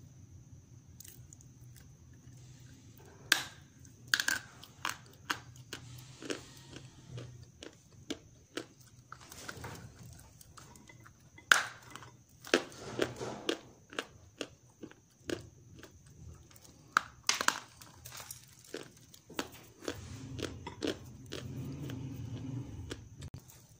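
Pieces of dry grey clay with grey clay paste being bitten and chewed close to the microphone: sharp, irregular crunching cracks with softer chewing between them.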